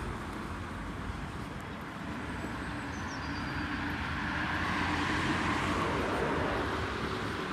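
City street traffic, with a vehicle passing that grows louder between about four and seven seconds in.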